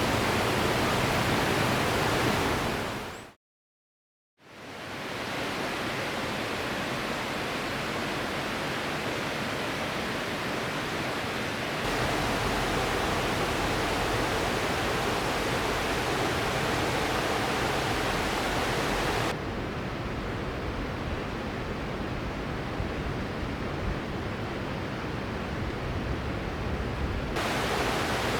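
Rushing river water running steadily, broken by about a second of silence early on, with its tone shifting abruptly a few times as the shots change.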